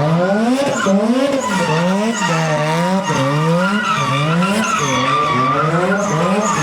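Drift car engine revving up and dropping back over and over, roughly every three quarters of a second, with tyres squealing as the car drifts.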